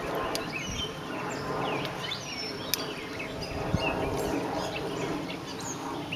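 Birds chirping again and again, short quick calls scattered through the whole stretch, over a steady low hum.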